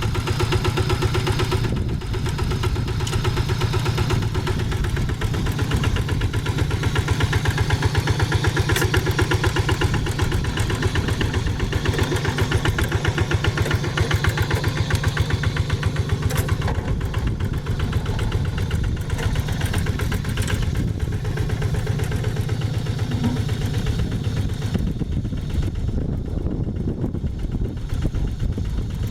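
Diesel engine of a two-wheel hand tractor running steadily with a fast, even chug; the higher-pitched part of the noise drops away in the last few seconds.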